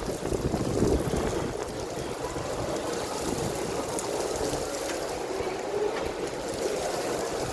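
Heavy rain and running water: a steady, even rush of water noise.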